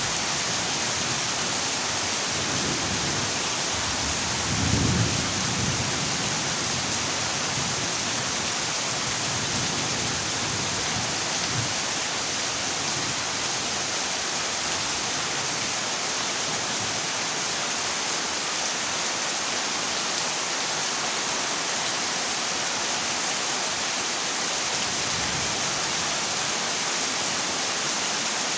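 Heavy rain falling on a corrugated zinc roof, a steady dense hiss, with a brief low rumble of thunder about five seconds in and fainter rumbles later.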